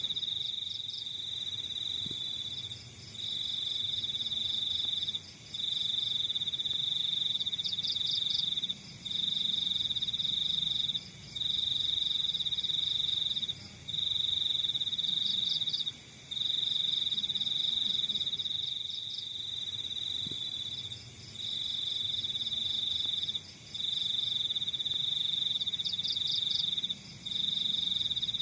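A chorus of crickets at night. One loud, high-pitched trill runs in stretches of about two seconds broken by short pauses, over softer rapid chirping from others.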